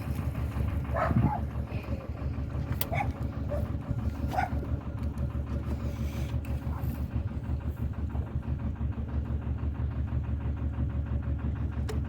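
Narrowboat's inboard engine running steadily while cruising, with a low, even, regular pulse. A few brief higher sounds come in over it during the first few seconds.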